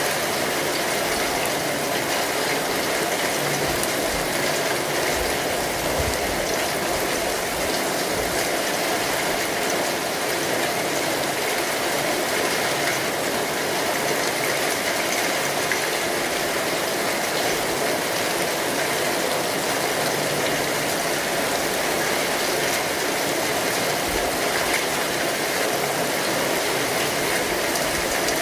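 Rain falling steadily on an umbrella canopy: a dense, even patter of drops.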